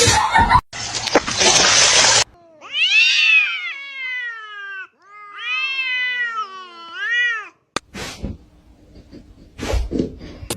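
A cat yowling: two long, drawn-out meows, each bending up and down in pitch, after a brief rush of noise. A few light knocks come near the end.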